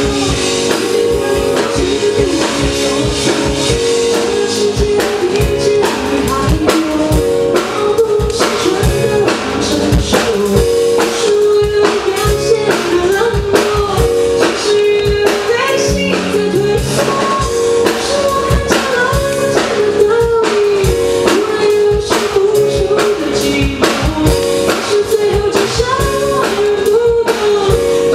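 Live piano-rock trio playing a song, with keyboard, bass and a drum kit and a voice singing the melody.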